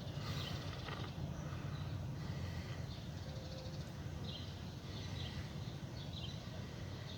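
Small birds chirping in short bursts over a steady low rumble, outdoors in a backyard.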